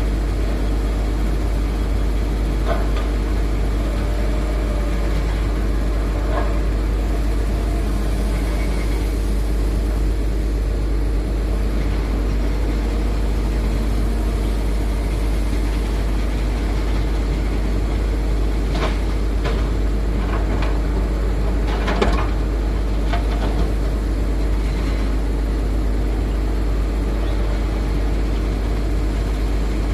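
Heavy diesel machinery running steadily, with scattered knocks and clatter. The clatter comes in a cluster between about 19 and 23 seconds in, and the loudest knock falls about 22 seconds in.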